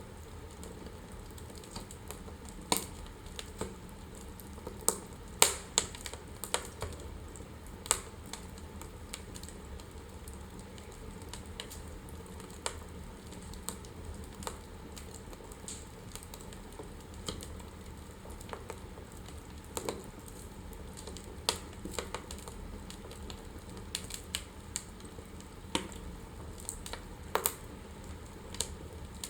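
Wood fire crackling in a fireplace: irregular sharp pops and snaps, a few of them loud, over a steady soft hiss of the flames.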